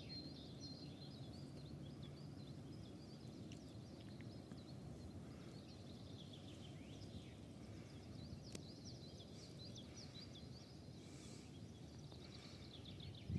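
Faint birdsong, many small birds chirping and trilling, over a steady low rumble of background noise.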